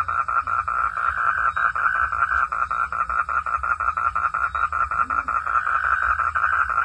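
Frogs calling in a steady chorus of rapid pulses, about eight a second.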